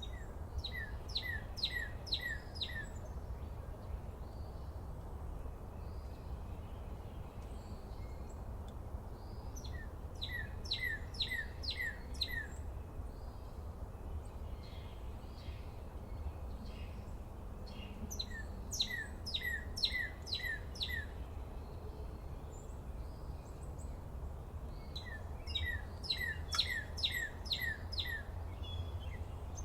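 A songbird singing four times, each song a quick run of five or six sharply down-slurred notes, with pauses of several seconds between songs. A steady low rumble runs underneath.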